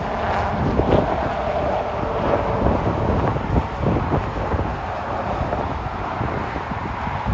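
Jet airliner engines running at the airport, a steady rumble with a faint whine in the first few seconds, under wind buffeting the microphone.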